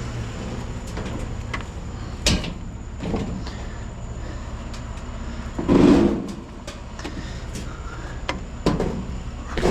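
Scrap metal being handled: a sharp knock about two seconds in and a louder clunk around six seconds, then a few lighter knocks near the end, over a steady low rumble.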